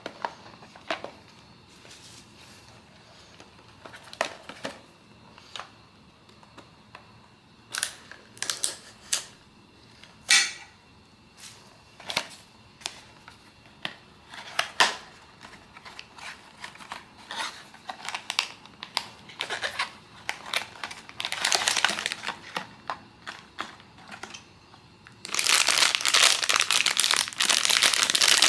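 Blind-box packaging being handled and opened: scattered clicks, taps and crinkles of cardboard and plastic, then, about 25 seconds in, a plastic wrapper crinkling loudly and continuously.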